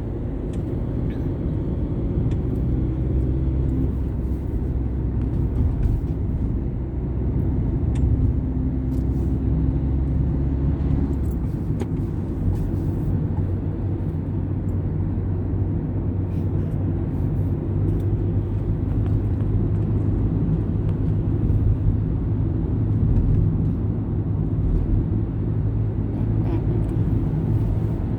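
Steady car engine and road rumble heard from inside a moving car, with the engine note shifting about twelve seconds in.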